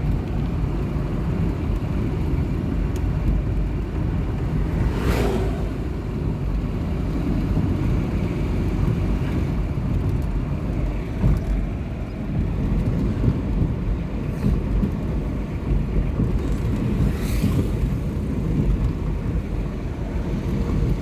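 Toyota Lucida's freshly overhauled 3C diesel engine running with road noise, heard from inside the cabin while driving. Two brief whooshes cut through, about five seconds in and again near the end.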